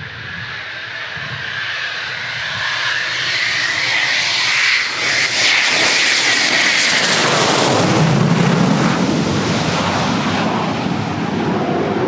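Eurofighter Typhoon's twin EJ200 turbofans growing louder as the jet approaches and passes. A high whine drops in pitch as it goes by, and a deep rumble follows after the pass.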